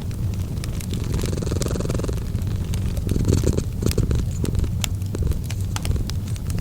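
Cat purring in a steady low rumble, with a wood fire crackling in sharp scattered pops over it.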